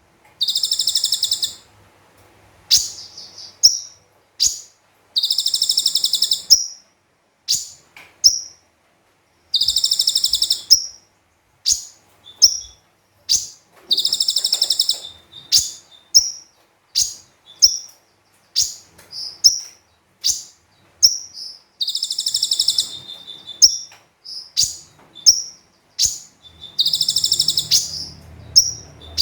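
A konin (kolibri ninja), a small sunbird, singing hard: five long, very high buzzing trills of about a second and a half each, with rapid short sharp chirps between them.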